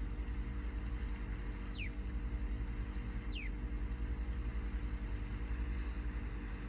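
Steady low motor hum. Over it, two short whistled bird calls, each sliding quickly down in pitch, about a second and a half apart in the first half.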